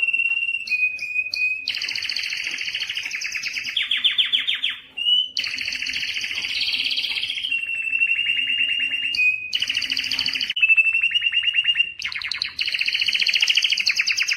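Canary singing a continuous song: long steady whistled notes alternating with fast rolling trills, with a short break about five seconds in.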